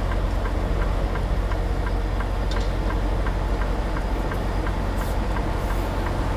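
Semi truck's diesel engine running at low speed, heard from inside the cab, with a regular light ticking of about three ticks a second.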